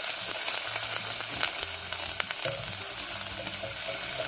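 Chopped garlic and onion seasoning sizzling in hot olive oil in a pot, stirred with a silicone spatula, with a steady frying hiss and a few faint clicks.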